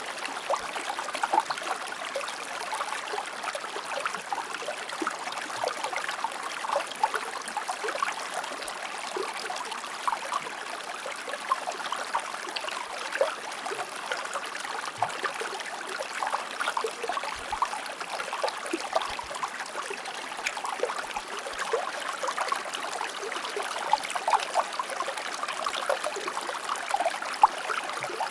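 Shallow river or stream flowing steadily over rocks, a continuous rush with many small splashes and gurgles.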